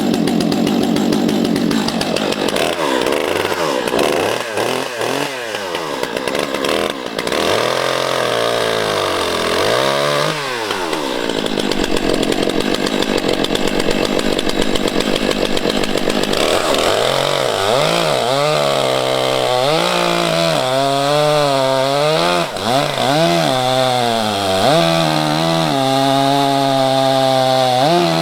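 Stihl MS 661 two-stroke chainsaw running on a freshly sharpened chain with newly adjusted rakers, being tried out. The engine is revved up and down again and again, with a stretch of several seconds held at high speed in the middle.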